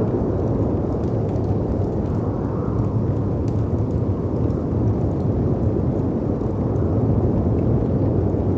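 Storm ambience: a steady, low rush of howling wind and sea waves breaking against rocks, with a few faint crackles from a wood fire.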